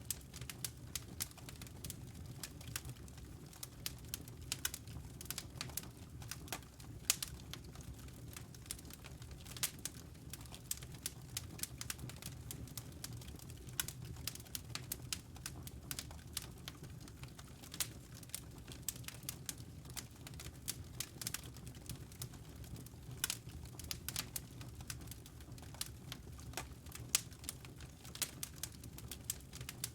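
Wood fire burning in a fireplace: quick, irregular crackles and pops, several a second, over a steady low rumble of the flames.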